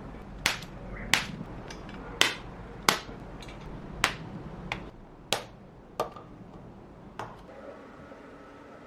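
About nine sharp, separate hammer strikes on metal at an uneven pace of roughly one per second, over a low background hum that drops away about halfway through.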